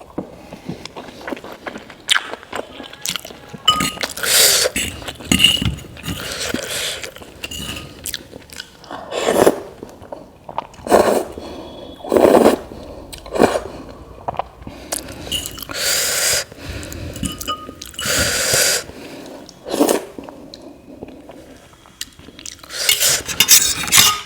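Close-up eating sounds: a person chewing and biting into noodles and momos, in irregular bursts, with utensils clinking against the dish now and then.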